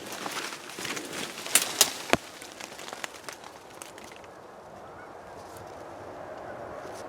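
Footsteps crashing through dry brush, twigs crackling and snapping, with three sharp snaps about a second and a half to two seconds in. After that it settles into a quieter rustling.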